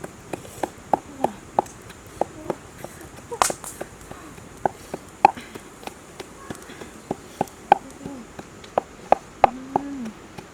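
Chopping with a knife: sharp, irregular knocks, about two a second.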